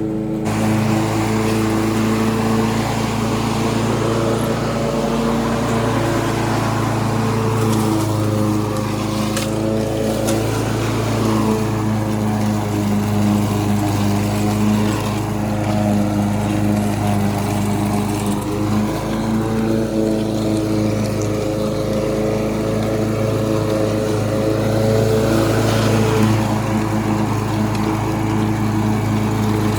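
Gasoline lawn mower engine running steadily under load, its pitch wavering a little up and down.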